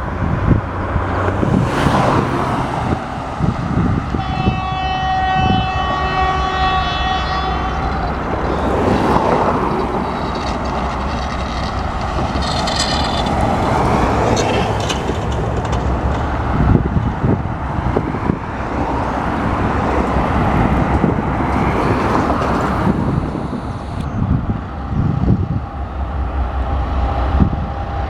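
2M62U diesel locomotive's two-stroke diesel engines running under load as it pulls a freight train, with the wagons clanking and knocking along the rails. The horn sounds for about four seconds near the start.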